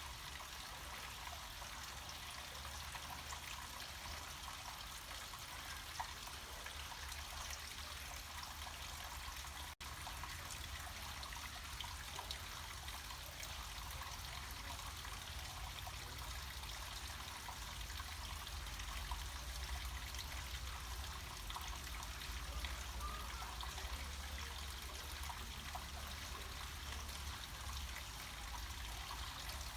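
Water trickling and splashing steadily down a small mountain stream or waterfall, over a steady low rumble. The sound drops out for an instant about ten seconds in.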